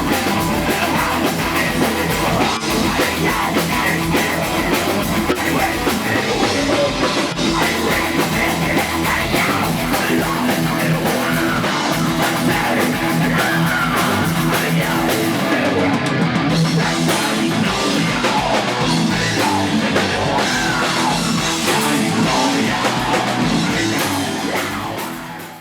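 Heavy metal band playing live, with a drum kit and electric guitars, fading out near the end.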